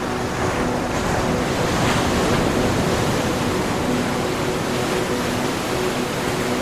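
Ocean surf: a wave swells and breaks about two seconds in, then a steady wash of foam and hiss follows.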